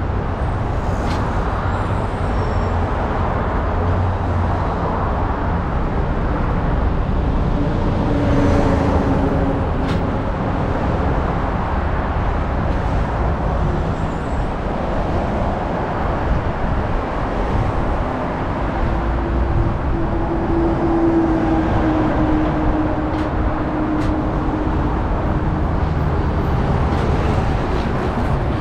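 Steady road and tyre noise of a car driving at freeway speed, with a faint droning tone that swells briefly about two-thirds of the way through.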